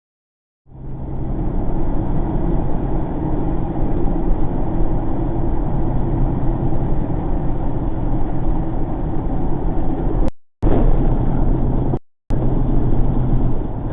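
Vehicle engine and road noise heard through a dashcam's microphone: a steady, loud rumble that starts about a second in and cuts out briefly twice near the end.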